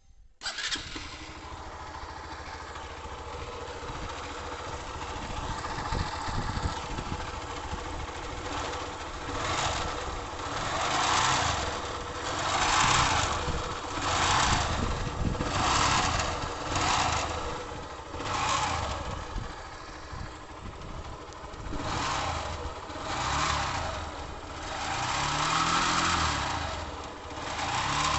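Honda Fan 150 motorcycle's single-cylinder four-stroke engine starting just after the start, idling, then revved in repeated short throttle blips from about nine seconds in. The owner reports a strange noise from the engine, cause not yet known.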